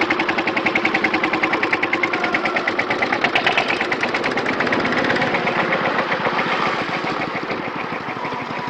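A machine running with a rapid, even knocking rhythm, about seven beats a second, easing slightly in level near the end.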